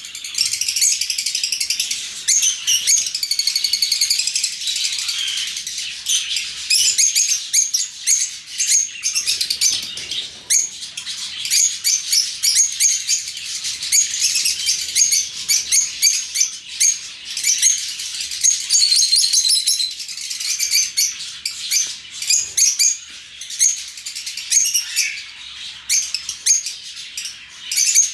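A flock of lovebirds chattering: many overlapping high chirps and calls, steady and unbroken.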